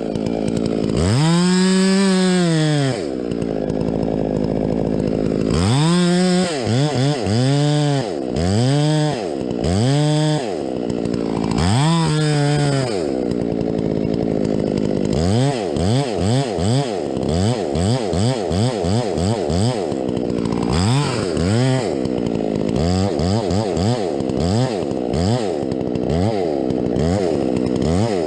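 Two-stroke chainsaw revved up and down over and over: a few long swells in engine pitch, then quick short revs from about halfway on.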